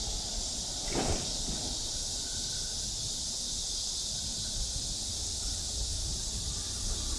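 Cicadas droning steadily in a high, even hiss. About a second in, a brief sound drops quickly in pitch.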